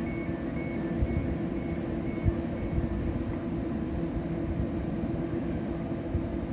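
A train standing at the station gives a steady rumble and hum. A run of short high beeps, about two a second, stops a little over two seconds in, with a couple of knocks.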